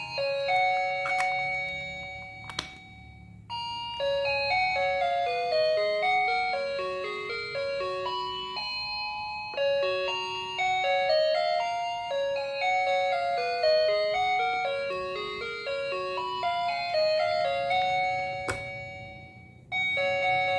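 Background music: a simple, chiming melody of single tones moving in steps. The tune loops, breaking off briefly about three seconds in and again near the end. A sharp click comes about two and a half seconds in, and another near the end.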